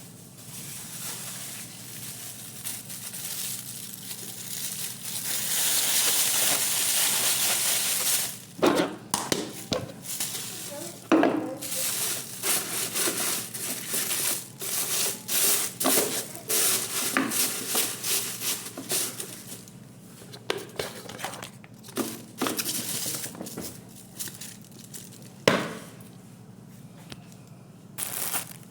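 Crinkling and rustling of something being handled, with sharp clicks and knocks scattered through it and snatches of a voice in places.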